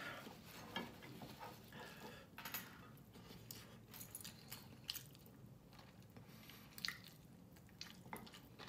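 Faint eating sounds: chewing and mouth noises with scattered small clicks as rice and chicken are eaten by hand.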